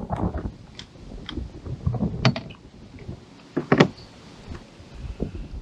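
Scattered knocks and clicks against a plastic fishing kayak, with two louder knocks, one a little past two seconds and one nearly four seconds in, over low rustling and bumping.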